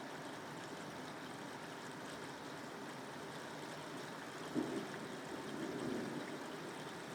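Steady rain falling, an even hiss. About four and a half seconds in, a sudden louder low rumble swells and fades over roughly two seconds.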